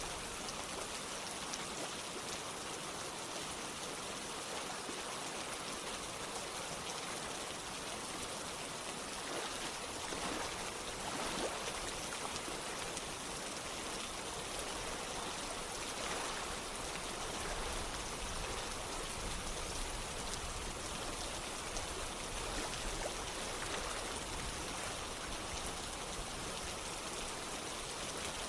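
Rain falling together with steadily running water, an even, continuous hiss. A faint low rumble joins in a little past halfway.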